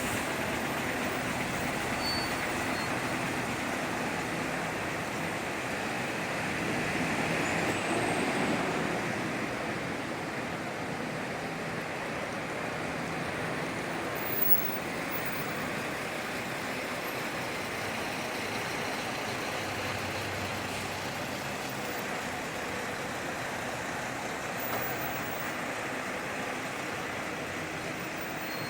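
Buses and road traffic running steadily, with a swell about eight seconds in as a vehicle passes close.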